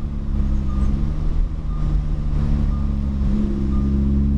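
Lamborghini Huracán's V10 engine running at moderate, steady revs, heard from inside the cabin under light throttle through a corner, its pitch creeping up a little in the second half.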